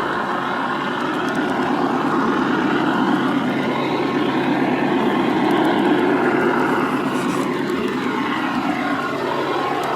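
Sound decoder's recorded GE Dash-9 diesel locomotive engine sound, played through the speaker of a G scale model locomotive as it runs steadily. In the last few seconds several tones glide up and down over the engine sound.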